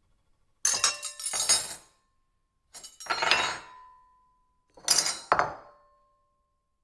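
Silverware clattering and clinking on a plate in three separate bursts, each a quick cluster of strikes with a short ringing tone trailing after it.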